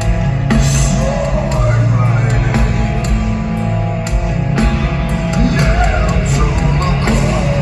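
Heavy metal band playing live: distorted guitars, bass and drums, with a wavering melodic line over the top.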